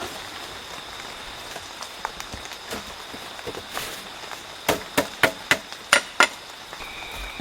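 A quick run of six sharp knocks, a quarter second or so apart, over a steady hiss and a thin, high, steady whine.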